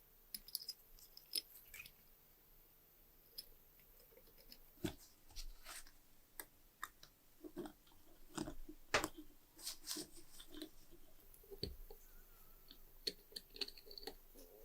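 Irregular light clicks and short scrapes of small parts of a trench lighter being handled and worked on, busier in the second half.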